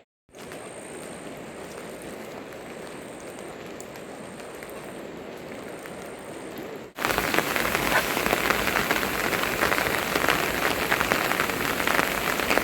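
Steady rain falling, moderate at first. About seven seconds in it cuts abruptly to much louder, heavier rain close by, a dense crackling patter of drops hitting a surface.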